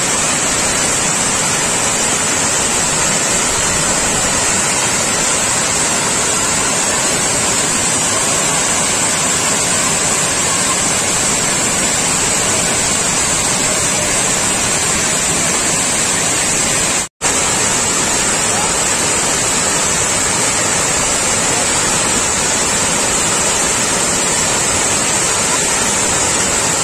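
Loud, steady rush of water pouring over an overflowing dam, cutting out for an instant about two-thirds of the way through.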